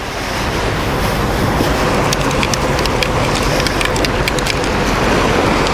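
Wind buffeting the microphone over the wash of surf, a steady rumbling noise, with a run of small sharp clicks through the middle.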